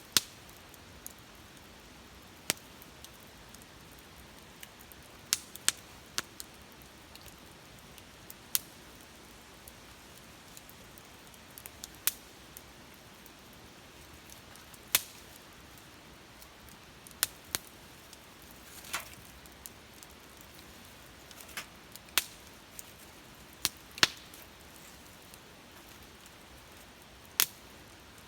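Wood fire crackling: irregular sharp pops and snaps, some close together and some a few seconds apart, over a faint steady hiss.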